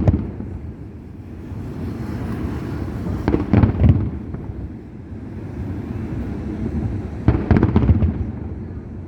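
Fireworks display: two clusters of shell bursts, one about three and a half seconds in and one about seven and a half seconds in. Each is a quick run of several bangs with crackle, over a steady low rumble between them.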